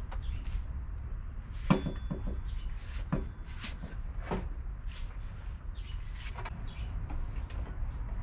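Workshop handling sounds while reassembling a motorcycle's front wheel and brakes: scattered clinks and knocks of tools and metal parts, with louder knocks about two, three and four seconds in, over a steady low rumble.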